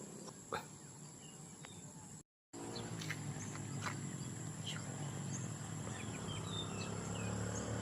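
Outdoor ambience with a steady, high insect drone, a few short sharp clicks and faint short chirps. After a brief dropout about two seconds in, a low pitched hum slowly grows louder toward the end.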